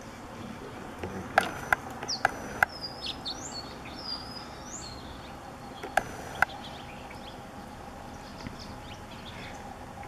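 Wild birds chirping outdoors: a string of high, sliding chirps about two to five seconds in. The loudest sounds are short, sharp clicks, four in quick succession near the start and two more about six seconds in.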